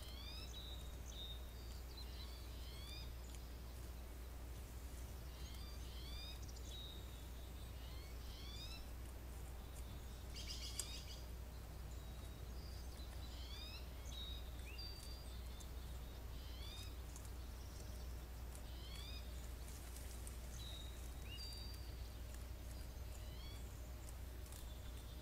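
Birds calling: repeated series of short, rising chirps over a steady low rumble, with one brief louder rasp about eleven seconds in.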